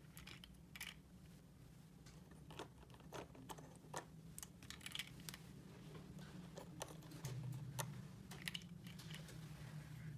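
Small plastic toy pieces being handled: light, scattered clicks and taps, a little louder and busier in the second half.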